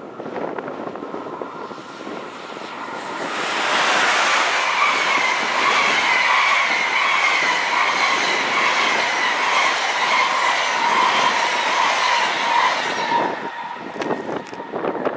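SBB InterRegio passenger train passing at speed: wheels rushing on the rails with a steady high whine and a rhythmic pulsing. It swells about three seconds in and fades near the end.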